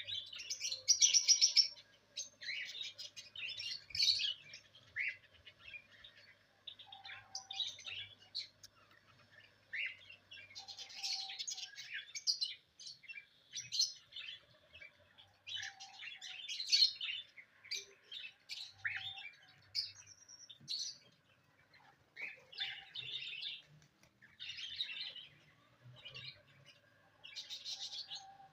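Small pet birds chirping and twittering in quick, high-pitched clusters, several at once, with short pauses between bouts.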